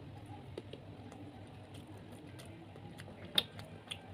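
Eating noises while handling big prawns: scattered small clicks and taps, with one sharp crack about three and a half seconds in, over a faint low hum.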